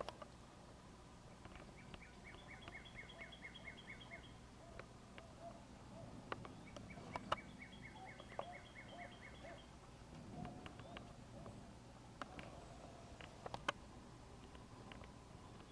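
Birds calling: a rapid high trill comes twice, each lasting two to three seconds, over lower repeated call notes, with a few faint clicks.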